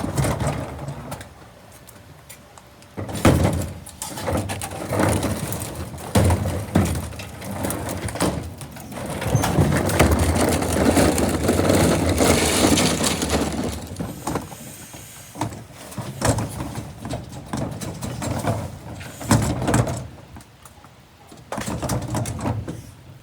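Electric garbage truck at work: a varying mechanical noise with many clanks and knocks.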